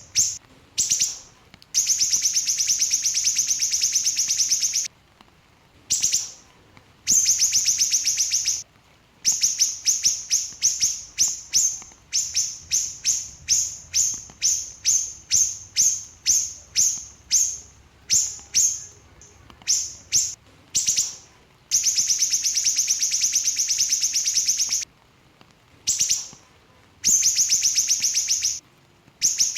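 Small siri-siri bird singing in fast, tightly packed bursts. Long rapid trills of a few seconds each alternate with shorter strings of quick high chirps, with brief pauses between phrases.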